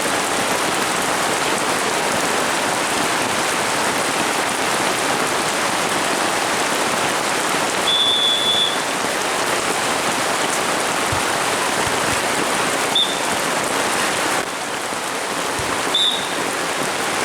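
Heavy rain falling steadily. Short high whistle blasts cut through it a few times, the longest about eight seconds in.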